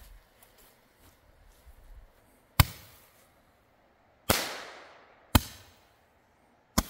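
Roman candle firing: four sharp pops about a second apart, each shooting off a ball, the second with a longer fading hiss. Not very loud for a firework.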